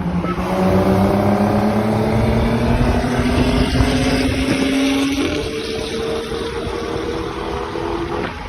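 A car engine pulling under acceleration, its pitch rising steadily for about five seconds, stepping at about five seconds in, and climbing again until near the end.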